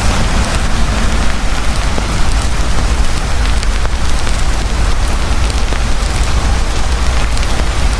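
Heavy rain falling steadily over a low rumble, with a campfire crackling faintly among the drops.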